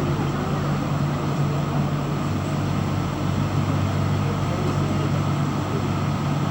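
Steady low hum of a cruise ship's engines under a constant rushing noise, unchanging throughout.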